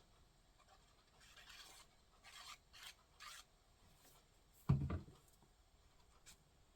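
Paper rubbing and scraping in a few short scratchy strokes, then a single dull thump on the work surface about two-thirds of the way through.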